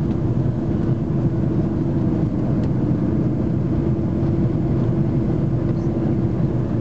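Steady in-flight cabin noise inside an Airbus A330-300: a continuous rumble of the engines and the air rushing past, with a steady hum.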